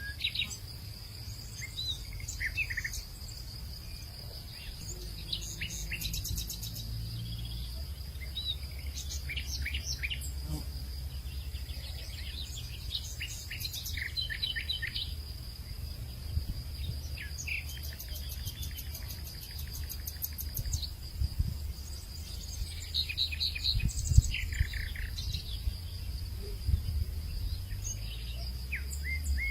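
Outdoor nature ambience: birds give many short chirps and calls, scattered throughout, over a steady high-pitched insect drone and a low rumble.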